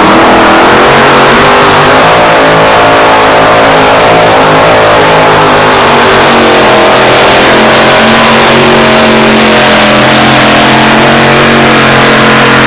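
Modified two-wheel-drive pulling truck's engine running flat out under load, loud and steady at high revs with slight wobbles in pitch.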